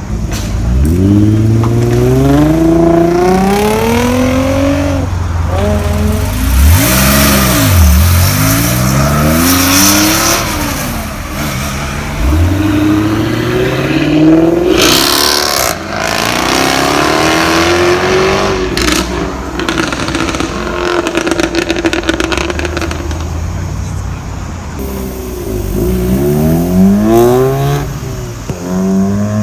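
Performance car engine revved hard again and again, its note climbing and falling, with a few sharp exhaust cracks in the middle.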